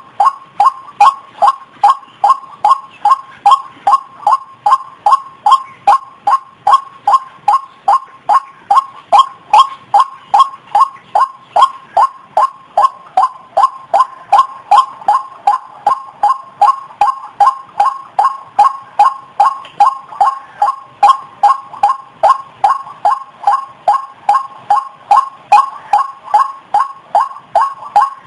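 White-breasted waterhen calling: a long, steady series of the same loud call note, repeated evenly about two or three times a second without a break.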